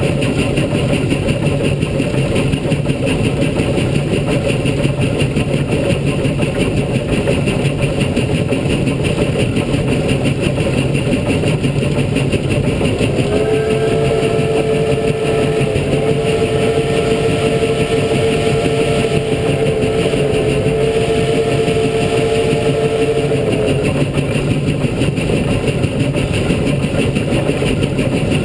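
Steam locomotive CP 3716 running with a steady rumble and rushing noise. About halfway through, its steam whistle sounds for about ten seconds in three blasts separated by two very short breaks.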